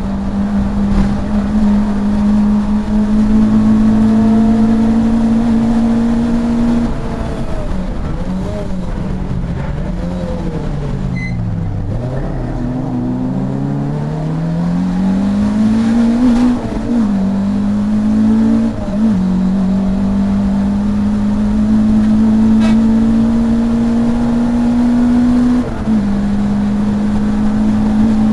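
Racing saloon car's engine heard from inside the car. It runs at high revs, then the revs fall in steps with short throttle blips as the car brakes and shifts down for a slow corner about halfway through. It then accelerates hard again, with three upshifts in the second half.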